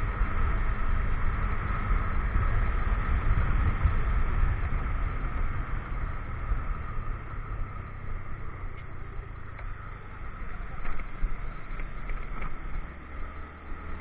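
Motorcycle engine running along with low wind rumble on the microphone while riding; the level eases off from about halfway and drops further near the end.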